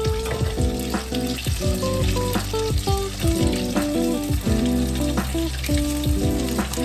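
Food frying in hot oil, a steady sizzle, with soft background music over it.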